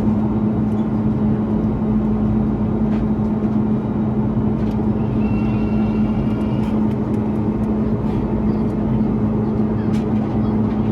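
Cabin noise of an Airbus A330-300 in its climb: the steady rush of the Rolls-Royce Trent 700 engines and airflow, with a constant low hum.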